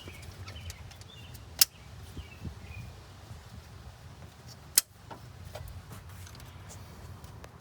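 Two sharp clicks about three seconds apart over a low steady rumble, from metal parts handled during work on the engine's ignition wiring.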